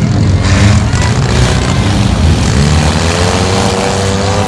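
Demolition derby cars' engines running and revving together in the arena, with a wide haze of noise over them. One engine revs up steadily from about two and a half seconds in.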